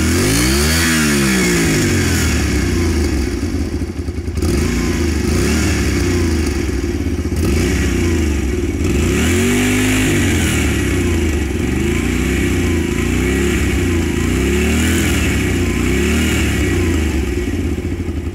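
Honda Varadero 125's V-twin engine, its exhaust emptied of baffles, being blipped again and again: loud revs rising and falling back every second or two.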